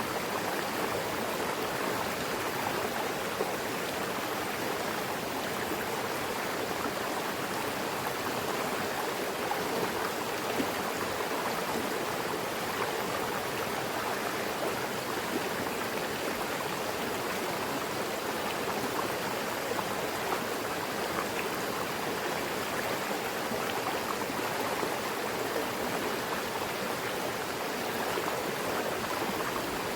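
Mountain river flowing over rocks: a steady rushing and splashing of water.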